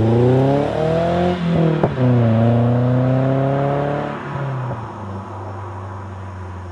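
Four-cylinder exhaust of a 2008 Chevrolet HHR with a JBP aftermarket header, pulling up in pitch, dropping back with a click about two seconds in, and rising again. After about four seconds it falls away to a lower, quieter steady note.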